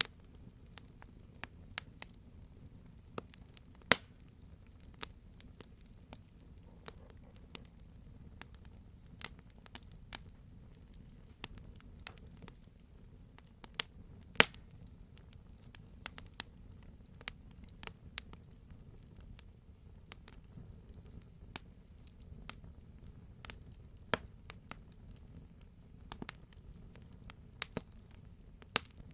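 Wood campfire crackling, with irregular sharp pops and snaps over a low steady rumble; a few pops stand out louder, about four seconds in and twice around the middle.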